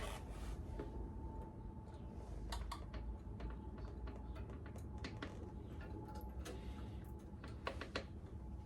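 Scattered light clicks and taps of hand work on motorcycle wiring and small parts, a few at a time with gaps between, over a faint steady hum.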